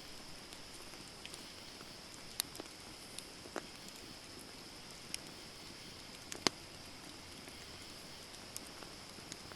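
Wood campfire burning: a steady hiss with scattered sharp crackles and pops from the burning wood, the loudest pop about six and a half seconds in.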